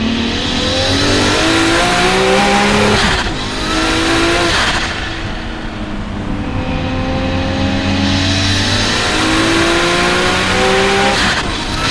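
Car engine revving hard, its pitch climbing steadily under load. The pitch drops abruptly about three seconds in and again near the end, then climbs again, over a steady loud hiss.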